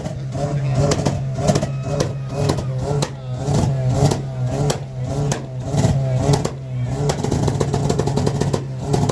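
Car engine running steadily at a loud idle, with sharp clicks or pops scattered through it and crowd voices over the top.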